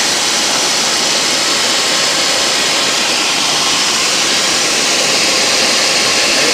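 Intermac Diamut grinding machine reprofiling a turbo diamond blade: a loud, steady grinding hiss that does not change.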